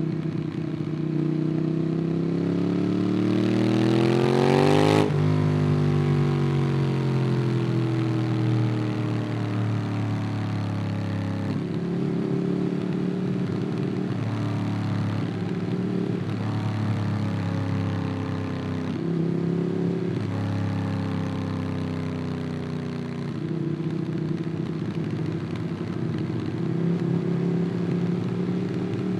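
Ducati Monster 821's 821 cc L-twin engine through a QD Twin Gunshot aftermarket exhaust, heard onboard while riding. The revs climb for about five seconds and cut off sharply, then fall away as the bike slows, followed by stretches of steady running with several shifts in engine pitch.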